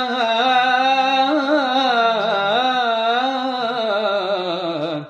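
A solo male munshid chanting a long melismatic phrase of Arabic devotional singing, the held note ornamented with wavering turns. The pitch sinks near the end before the voice stops.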